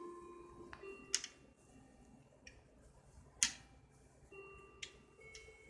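Scattered clicks and faint short squeaks from handling a camera tripod and its column crank. The loudest is a sharp click about three and a half seconds in.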